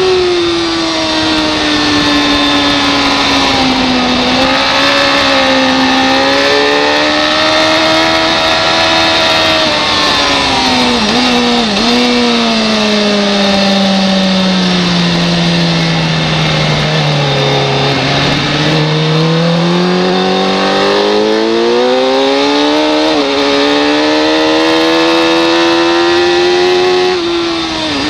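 Racing motorcycle engine at race pace. The revs climb and fall with the throttle, with quick dips at gear changes. About two-thirds of the way through the pitch falls steadily for several seconds as the bike slows and changes down for a slow corner, then it builds again under acceleration.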